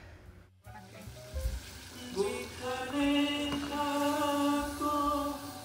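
Pitha batter deep-frying in hot oil, a steady sizzle. About two seconds in, someone singing comes in over it with long held notes, louder than the frying.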